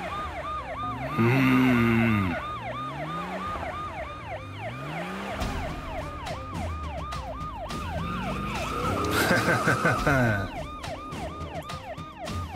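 Police car siren wailing in a fast yelp, rising and falling about four times a second without a break. Under it, car engines rev in rising sweeps, with two louder rushing swells, about a second in and again near the end.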